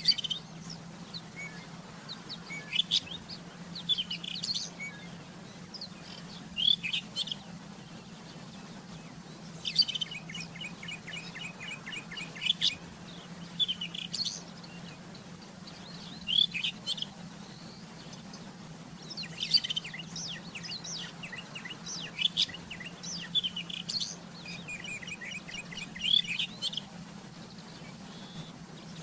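Rufous-tailed scrub robin singing: short phrases of clear whistles and fast trills, repeated every two to three seconds, over a steady low hum.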